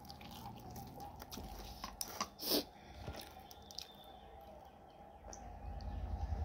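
Close-up chewing of a mouthful of instant noodles: soft wet mouth sounds and small clicks, with one louder short sound about two and a half seconds in.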